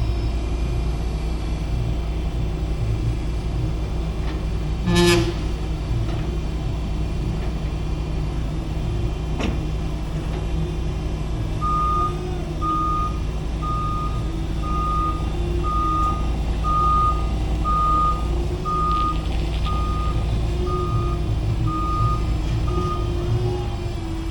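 Diesel engine running steadily, with a vehicle backup alarm sounding about a dozen evenly spaced beeps, roughly one a second, from about midway until shortly before the end. A short loud burst about five seconds in.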